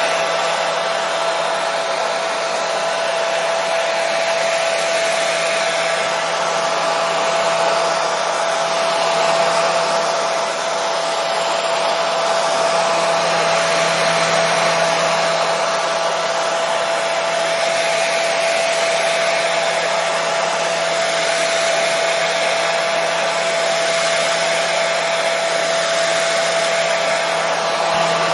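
Hair dryer running steadily: a constant rush of air with a steady whine under it, unchanging.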